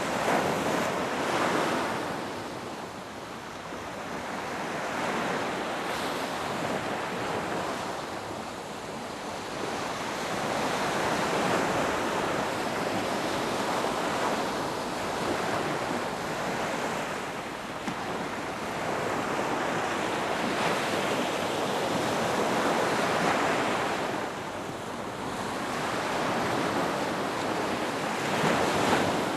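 Ocean waves breaking and washing up a beach, the surf swelling and easing every few seconds.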